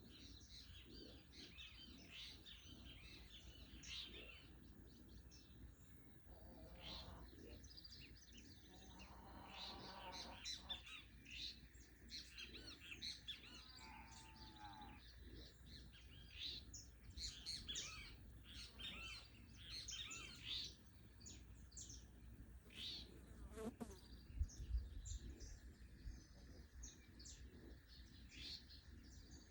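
Birds chirping and calling, many short calls overlapping, faint. There is a brief low rumble late on.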